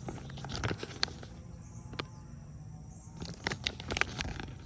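Light handling noises: scattered soft clicks and rustles of a paper manual being handled, more of them in the second half.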